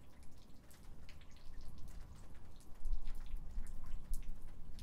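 Light rain: scattered raindrops falling and dripping close to the microphone, over a low rumble that swells about three seconds in.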